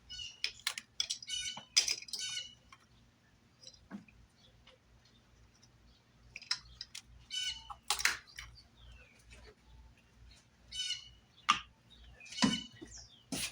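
Small birds chirping in short repeated bursts, with a few sharp clicks and knocks from work nearby, the loudest of them near the end.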